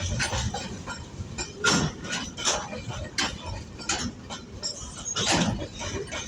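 Freight train wagons passing, with irregular metallic clanks and knocks about once a second over a low rumble.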